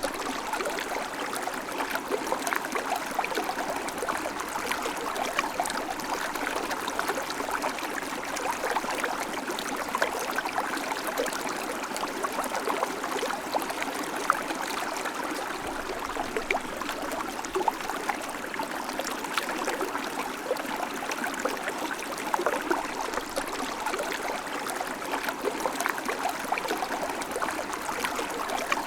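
River water flowing steadily over stones, a constant rushing with small splashes and gurgles.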